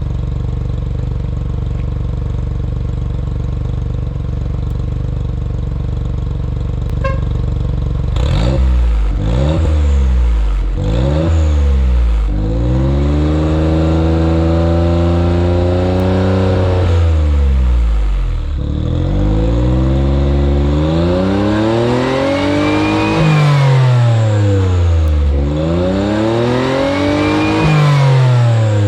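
Autozam AZ-1's turbocharged 657 cc three-cylinder engine, breathing through a straight downpipe with no catalytic converter, idling warm and steady. About eight seconds in it is revved in three quick blips, then in three longer revs that climb and drop back to idle.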